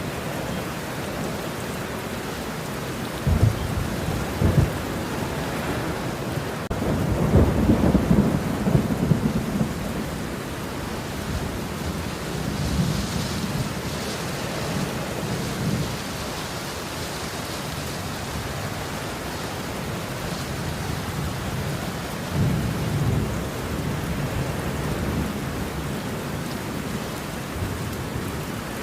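Steady rain falling, with thunder rumbling in three low rolls; the strongest comes about a quarter of the way through.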